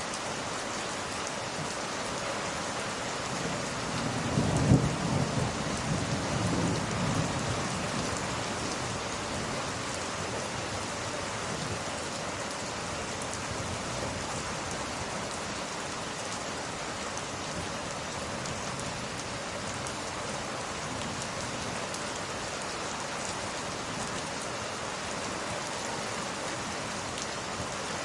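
Steady rain falling, with a low rumble of thunder about four seconds in that peaks sharply and rolls on for a few seconds before fading back into the rain.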